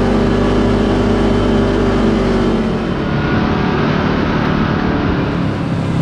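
Side-by-side UTV engine running steadily while driving, then easing off about halfway through, leaving mostly road and wind noise.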